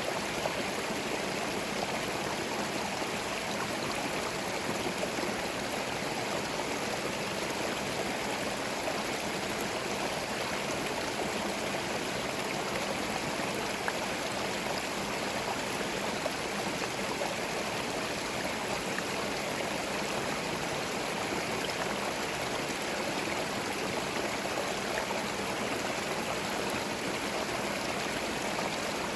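Small forest stream running over stones, a steady babbling and gurgling of flowing water.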